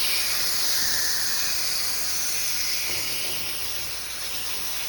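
Garden hose spraying water through an air conditioner coil's fins, a steady hiss of the spray with water splashing down into the drain pan below.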